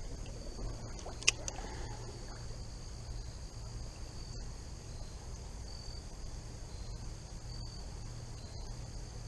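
Insect chorus: a steady high-pitched trill of crickets with short repeated chirps over it, a low steady rumble underneath, and one sharp click about a second in.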